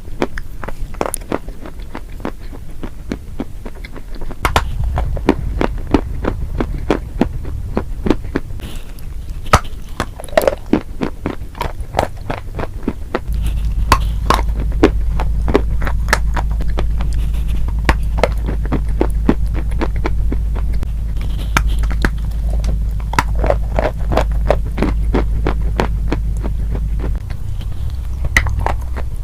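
Close-miked crunching of very crunchy food being chewed, with many quick, sharp crunches throughout. A steady low hum runs underneath, growing louder about halfway through and dropping back near the end.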